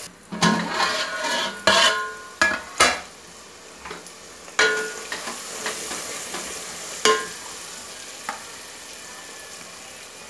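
Aluminium pot lid clanking as it comes off, then a wooden spoon stirring onions and tomatoes frying in oil in the aluminium pot. The mixture sizzles steadily, and a few sharp, ringing knocks of spoon or lid on the metal come through, the loudest in the first three seconds.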